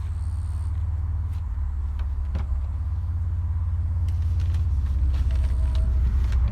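Car engine running with a low, pulsing rumble that grows steadily louder.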